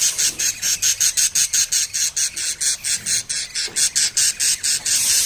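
Baby budgerigars chirping, a fast, even run of short, high calls at about five to six a second.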